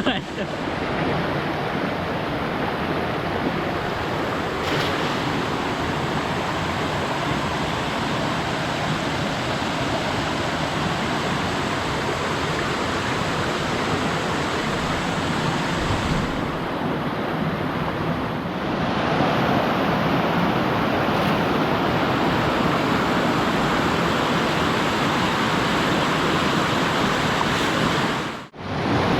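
Waterfall and stream water rushing steadily, a dense even hiss of falling water. It gets a little louder about two-thirds of the way through and cuts out for a moment near the end.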